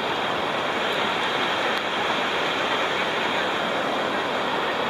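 Waterfall water rushing steadily over the rock tiers.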